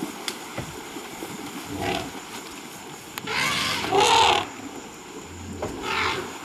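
Elephants bathing in a river: several separate bursts of splashing and water noise, the loudest and longest about halfway through, with another about a second in and one near the end.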